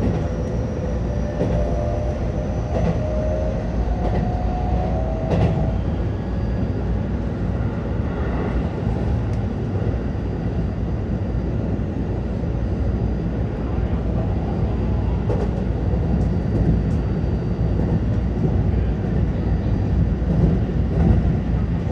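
Keihan 10000 series electric train under way, a steady low rumble of wheels on rail. For roughly the first five seconds a whine rises in pitch, then fades out, leaving the plain running rumble.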